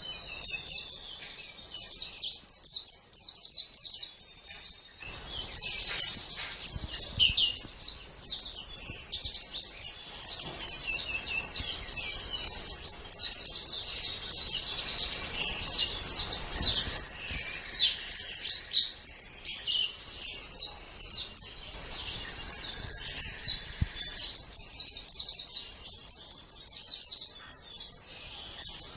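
White-eye (pleci) singing a fast, continuous, high-pitched twittering song of quick chirps, with only brief pauses.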